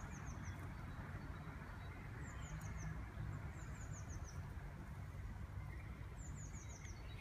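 A small songbird repeating a short run of four to six quick, descending high notes, four times, over a steady low rumble of background noise.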